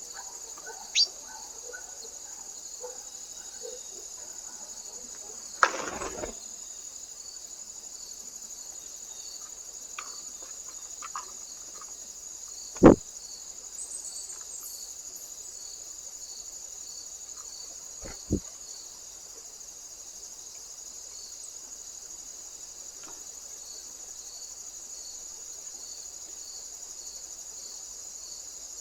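Crickets chirring steadily in a high, pulsing chorus, with a few sharp knocks or taps scattered through, the loudest near the middle.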